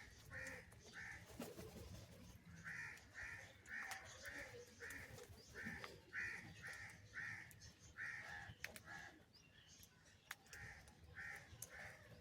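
Crow cawing faintly in several quick runs of three or four caws.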